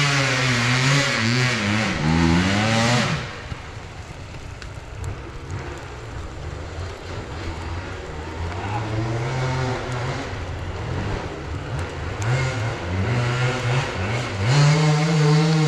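Enduro motorcycle engines revving up and down under load on a trail. Loud for about the first three seconds, then fainter, then revving again and growing louder toward the end as a bike approaches.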